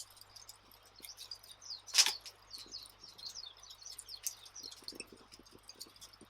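Wood fire crackling with scattered small snaps and one loud pop about two seconds in, with high chirps of small birds.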